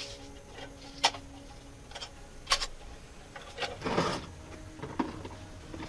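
Workshop handling sounds: a few separate sharp clinks and taps of tools or metal parts, with a short scraping rub about four seconds in.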